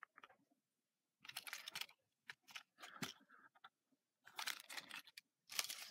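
Faint crinkling and rustling of plastic packaging in several short bursts, as an N-gauge model railway car is unpacked from its bag.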